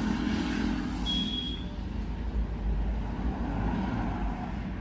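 Steady low background rumble of road traffic, with a short high-pitched beep about a second in.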